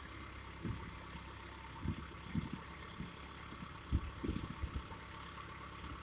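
An engine running steadily at idle, with irregular low thumps over it several times.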